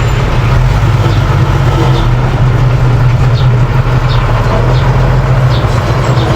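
Mini bulldozer's engine running with a steady low drone, with faint light clinks scattered through it.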